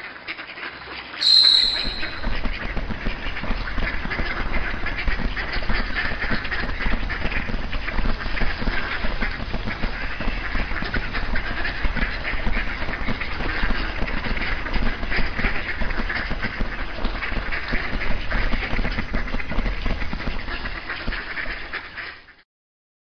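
Animated soundtrack of a flock of cartoon birds racing: a dense mass of quacking and honking bird calls over a steady low rumble. A short high tone comes in about a second in, and the sound cuts off shortly before the end.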